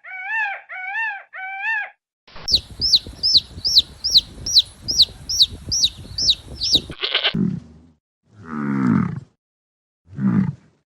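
A run of farm animal calls. First come about two seconds of short repeated whines. Then rapid high-pitched peeping runs for about four seconds, followed by three cattle moos, each falling in pitch, in the last few seconds.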